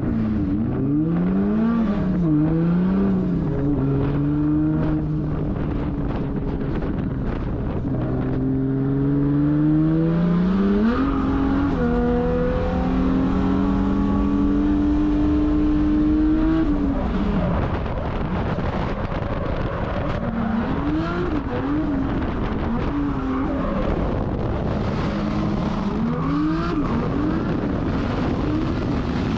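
Toyota 1.5JZ inline-six in a drift car, revving hard through a drift run. Its pitch climbs and drops again and again in quick throttle changes, with one long climb about ten seconds in that is held high until it drops off around seventeen seconds.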